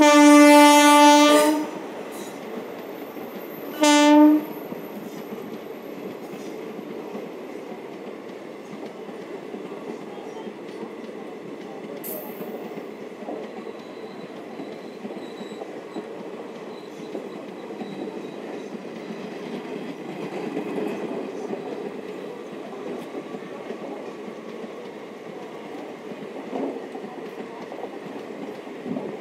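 Indian Railways WAP-4 electric locomotive's horn sounding twice: a long blast of about a second and a half, then a short blast a few seconds later. After that comes the steady rumble and clatter of the passenger coaches' wheels rolling past on the track.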